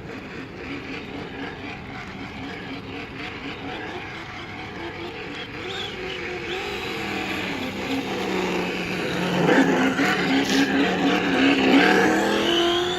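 Traxxas Slash Ultimate RC truck running a high-speed pass on a 3S LiPo, its brushless electric motor whining and shifting in pitch. It grows louder as it comes closer and is loudest near the end.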